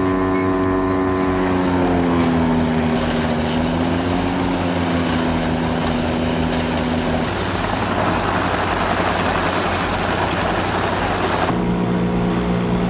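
A large wood chipper's engine running under load, its pitch sagging about two seconds in as it works through timber. After about seven seconds the engine tone gives way to a dense grinding noise of wood being chipped. Near the end a steady engine drone cuts back in.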